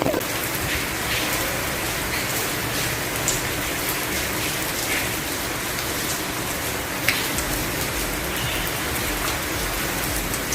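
Steady rain falling, with now and then a single louder drop striking close by.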